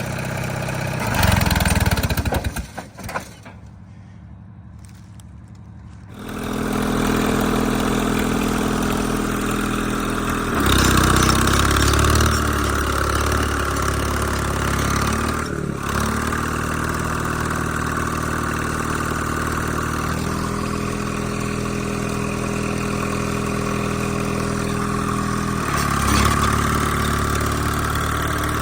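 Allis-Chalmers HD5 bulldozer's GM 3-71 two-stroke diesel working hard. It surges, then drops away to near quiet for a few seconds about two seconds in. About six seconds in it comes back in strongly and runs steadily, rising again under load around ten seconds and near the end.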